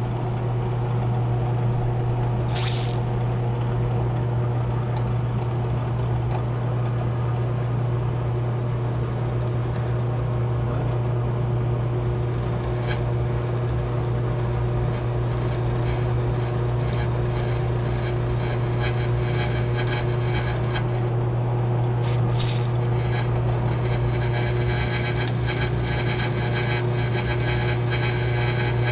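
A steady machine hum holds at one pitch throughout, with a few brief clicks or scrapes over it, more of them near the end.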